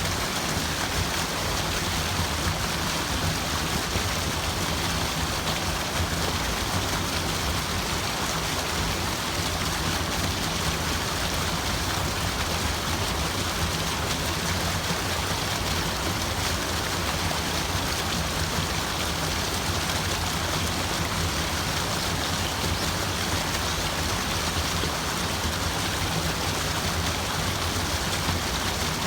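Steady, unbroken rushing of water, an even wash of noise with no distinct drops or splashes standing out.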